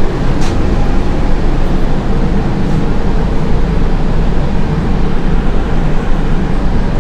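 Steady loud hum and rumble inside a standing air-conditioned train coach, its air-conditioning and onboard machinery running, with one faint tick about half a second in.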